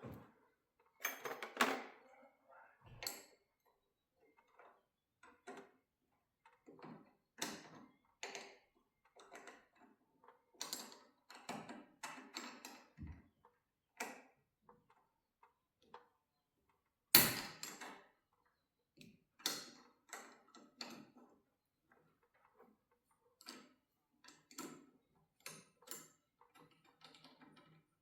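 Hand tools clicking and knocking against a garage door's torsion shaft and cable drum while the drum is lined up and its set screws are tightened: irregular short clicks, with one sharper clank about seventeen seconds in.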